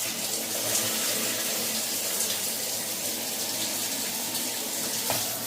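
Water spraying from a Delta shower head and splashing down, a steady hiss of running water.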